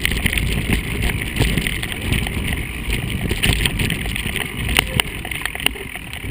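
Mountain bike rolling over a rough trail, with the rumble of the tyres and wind on the microphone, plus sharp rattling knocks from the bike in the second half.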